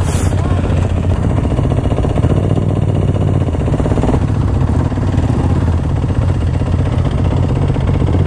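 Dirt bike engine idling steadily, close to the microphone, with a steady low throb.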